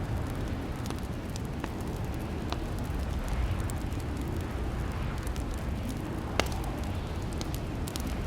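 Wood fire crackling in a fireplace: a steady low rumble of flames with scattered pops and snaps, one sharper pop about six seconds in.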